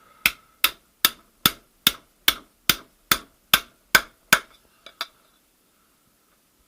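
Hammer blows driving the rear bearing onto the input shaft of a VAZ 2108–2115 manual gearbox: about eleven sharp metal strikes at a steady two or three a second, then two lighter taps as the bearing seats.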